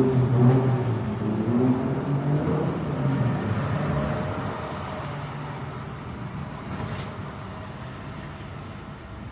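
A motor vehicle's engine passing close by, loudest at the start and fading away steadily as it drives off, with steady street noise underneath.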